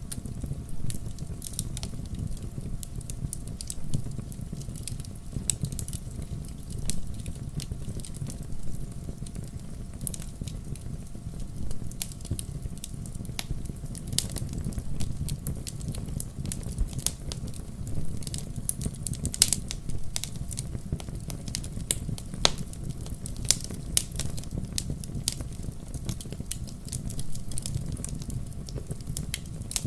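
Wood campfire crackling: irregular sharp pops and snaps, some louder than the rest, over a steady low rumble.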